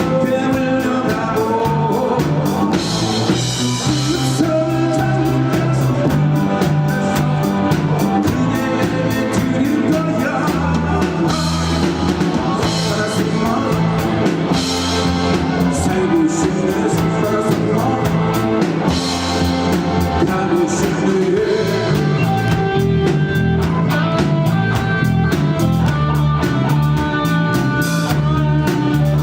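A live rock band playing a song: drum kit with a steady hi-hat and cymbal beat, electric guitar and bass, with singing.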